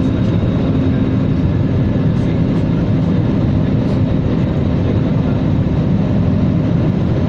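Airliner cabin noise: a steady, loud rush of engines and airflow heard from inside the passenger cabin, with a faint steady hum running under it.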